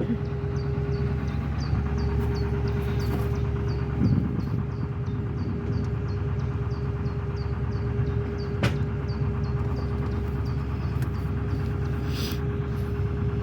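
A narrowboat's Lister SR2 two-cylinder diesel engine running steadily under way, with a constant low throb and a steady hum.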